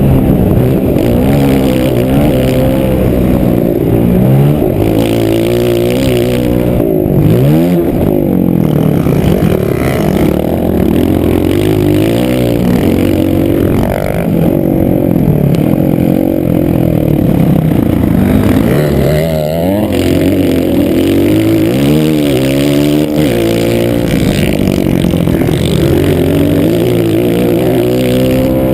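Motocross bike engine running hard, its pitch rising and falling over and over as the throttle is opened and closed and the gears are shifted.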